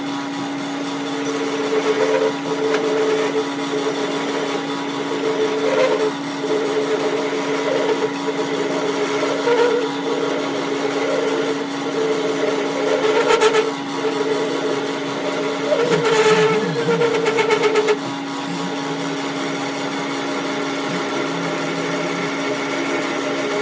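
A machine motor running steadily, with a second, wavering tone coming and going over the first eighteen seconds or so.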